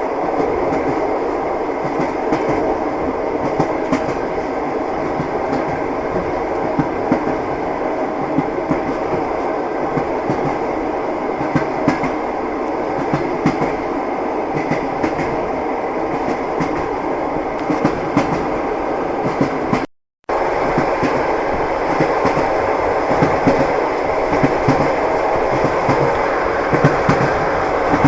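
Passenger train running at speed, heard from inside the carriage: a steady rumble with the clickety-clack of the wheels over rail joints. The sound cuts out for a moment about two-thirds of the way through.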